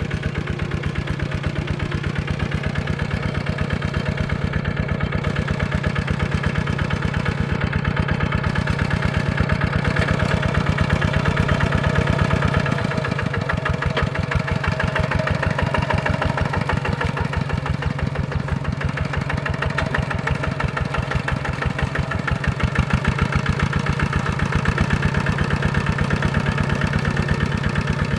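Single-cylinder diesel engine of a Kubota RT155-type walking tractor running steadily with an even, rapid chug. Its note shifts a little about halfway through.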